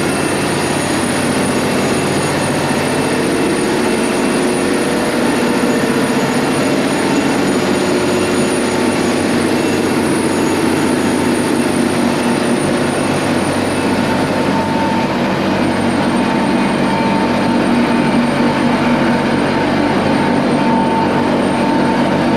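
Loud, steady machinery din of a ship's engine room, with several steady hums. A whine near 1 kHz grows stronger about two-thirds of the way through.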